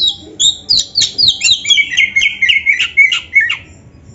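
Oriental magpie-robin (kacer) singing a fast run of short, sharp whistled notes, about four a second, stopping about three and a half seconds in.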